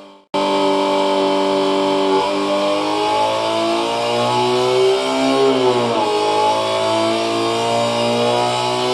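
Homemade optical engine-sound synthesizer, a patterned spinning disc read by a laser and photosensor and played through a small speaker ringing inside a can, imitating a Subaru EJ20 flat-four with equal-length exhaust. It starts after a brief silence and revs, the pitch climbing slowly, dropping sharply about six seconds in, then climbing again.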